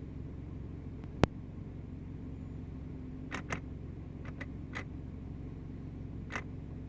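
2010 Subaru Legacy engine idling in park with a steady low hum, and irregular sharp clicks over it: one loud click about a second in, a cluster of lighter ticks a few seconds later, and another near the end. These clicks at idle are the noise being shown; their cause is not known.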